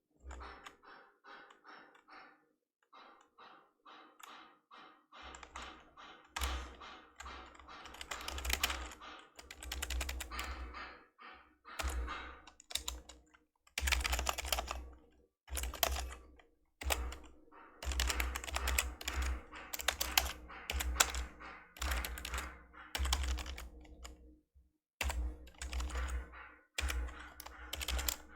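Typing on an old membrane keyboard: fast runs of keystrokes broken by short pauses, with a dull low thump under the keys. The first few seconds are lighter and quieter, then the typing grows heavier.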